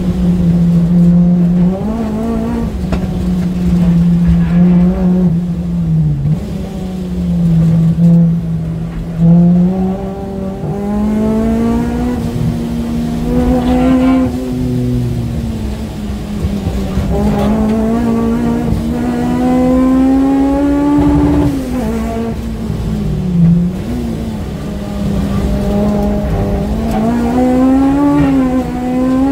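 Honda Civic Type R engine heard from inside the cabin while the car is driven hard on track. The engine note climbs and drops several times with acceleration, gear changes and braking, over steady road and tyre noise.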